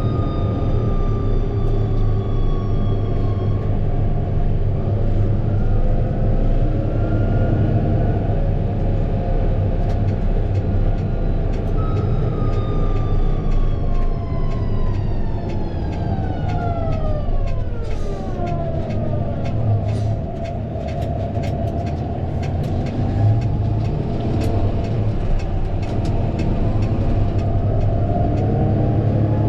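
Fendt 936 Vario tractor running steadily with a low drone. About halfway through, a higher whine slides down in pitch over several seconds, and light clicks and rattles are scattered through the second half.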